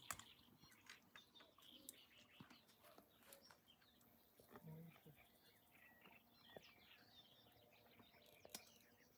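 Near silence, with faint birds chirping and a few small clicks.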